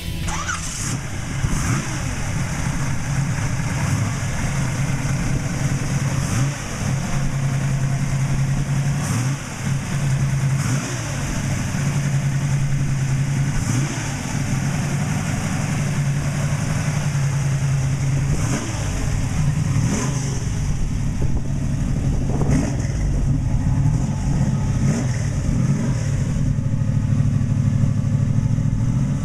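1967 Camaro's 383 stroker V8 running, the revs rising and falling again and again.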